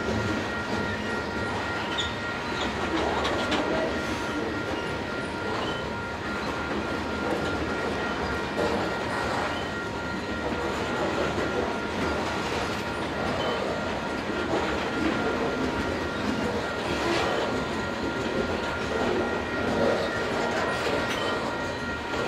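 Loaded covered hopper cars of a long freight train rolling past, a steady rumble with the wheels clattering as each car's trucks go by. Steady high ringing tones from a grade-crossing bell run over it.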